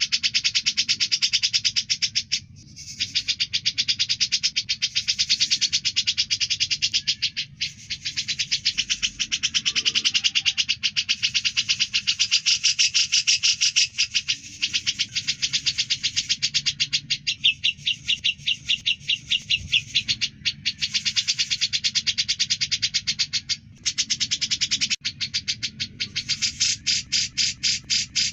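Cucak jenggot (grey-cheeked bulbul) singing a loud, rapid chattering song of fast repeated notes, with a few brief breaks.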